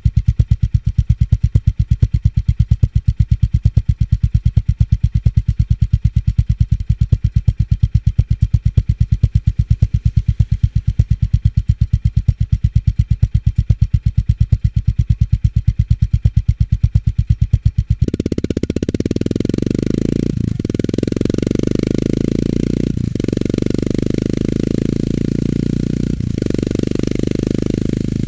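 Honda GB350 S air-cooled single-cylinder engine through its stock muffler, idling with an even, slow thump-thump of separate exhaust pulses. About two-thirds of the way in it switches abruptly to the engine running under load, a denser, smoother sound whose pitch moves, broken by three brief dips that fit gear changes.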